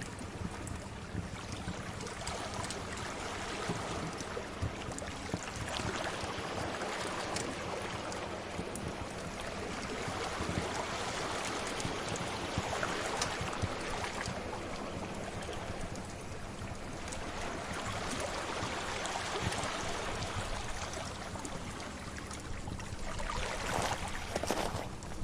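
Sea waves washing in and out in slow, rising and falling swells, mixed with the small pops and crackles of a fire.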